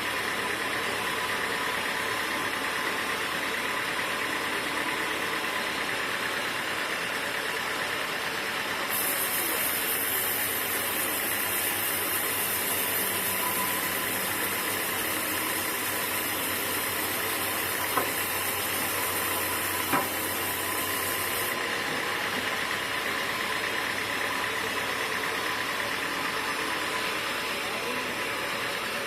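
Sawmill machinery running steadily with a steady motor whine. A second machine adds a hiss and a low hum from about nine seconds in until about twenty-one seconds, and two sharp knocks come near the middle, two seconds apart.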